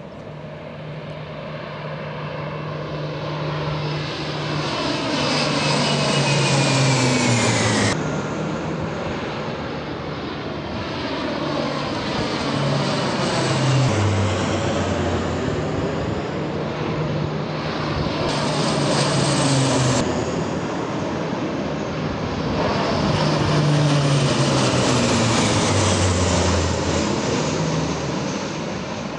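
C-130 Hercules four-engine turboprop aircraft passing low overhead in succession. The propeller drone swells and drops in pitch as each one goes by, with a few abrupt breaks in the sound.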